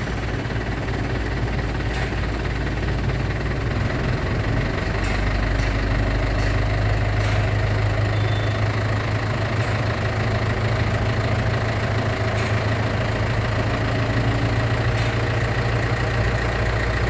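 Diesel engine of an Eicher Pro 1110 truck idling with a steady low rumble, growing slightly louder about five seconds in.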